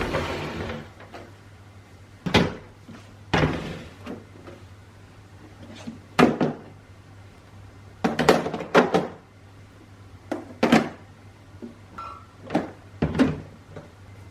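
Kitchen handling sounds: a string of separate clunks and knocks as containers and doors are moved, set down, opened and closed, with a faint steady low hum underneath.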